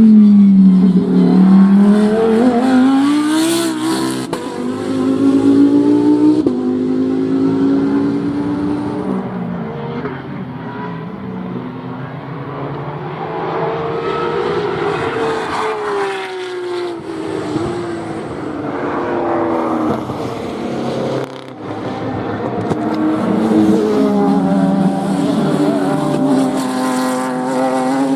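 Racing car engines at a circuit, running hard past the microphone. The engine pitch falls and rises several times as the cars brake, change down and accelerate back up through the gears.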